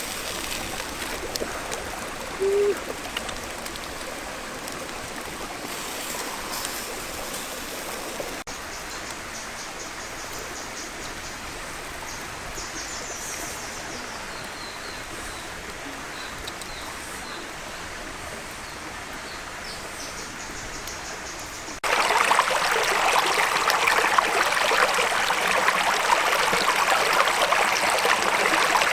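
Stream water running steadily. After a cut about three-quarters of the way through, the water noise turns suddenly louder and fuller.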